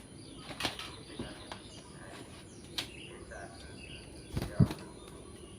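Faint short bird chirps over a steady high-pitched hiss, with three knocks, the loudest a low thump about four and a half seconds in.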